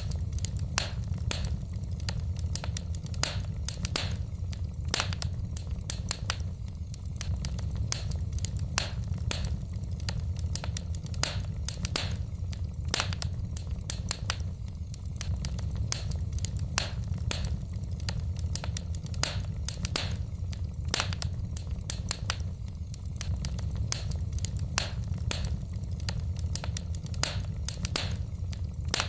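Wood fire burning in a fireplace, logs crackling and popping in quick, irregular snaps over a steady low rumble of the flames.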